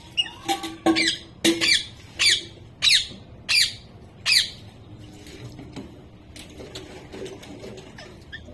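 Pet parrot squawking: a quick series of about eight short, sharp calls, each falling in pitch, over the first four seconds or so, then it goes quiet.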